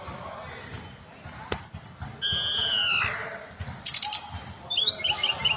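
Tledekan gunung singing: a drawn-out falling whistle, then a short rattling burst and a quick run of short chirps.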